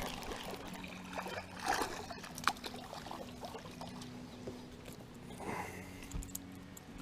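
Water trickling and splashing beside a boat, over a steady low hum, with scattered small clicks and one sharp click about two and a half seconds in.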